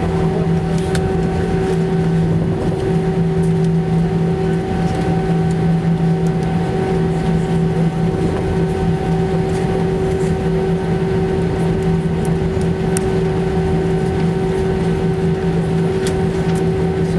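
Airbus A319's CFM56 jet engines running at high thrust around takeoff, heard from inside the passenger cabin as a loud, steady roar with an even, unchanging whine.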